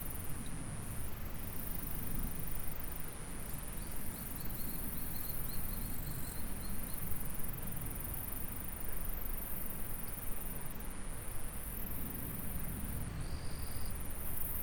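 Insects in a rice paddy keeping up a continuous high-pitched trill, over a steady low rush of flowing stream water. Fainter short chirps come in around four seconds in and again near the end.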